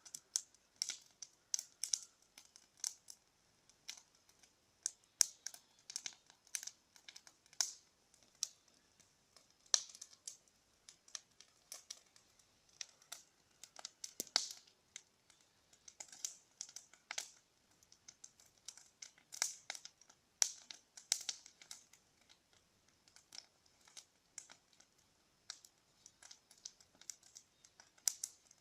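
Bonfire crackling: irregular sharp wood pops and snaps, several a second, some louder than others.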